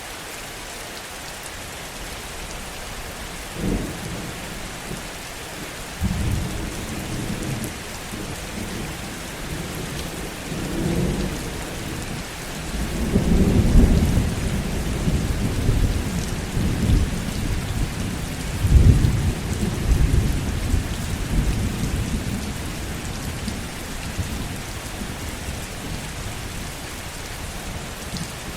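Heavy steady rain with a long roll of thunder: a first crack about three and a half seconds in, then deep rumbling that swells to its loudest around halfway through and dies away well before the end.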